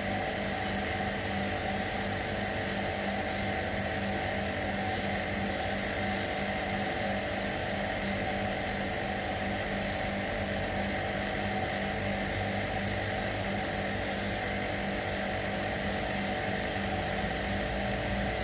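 An engine or motor running steadily at one constant speed, a level, unchanging hum.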